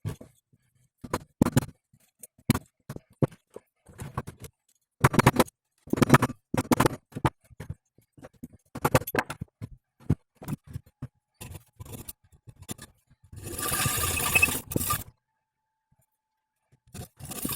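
Hand tools knocking, clinking and scraping on metal parts during driveshaft universal-joint work: a string of short irregular knocks and scrapes, then a steady scraping noise lasting about two seconds. Near the end the same noise starts again.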